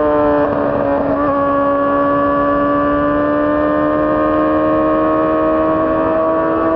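Honda CBR600RR's inline-four engine running at high revs under way. It shifts gear about a second in, then pulls on steadily with its pitch slowly rising.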